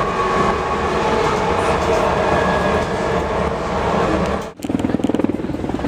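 Light-rail trolley train running: a steady rumble with faint steady whining tones. About four and a half seconds in it cuts off sharply, and a fast, fluttering rumble takes over.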